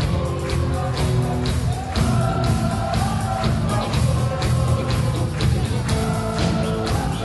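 A live band playing rock music with a steady drum beat and some singing.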